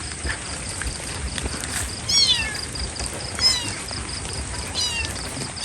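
Kitten meowing three times, each a short, high-pitched cry that falls in pitch.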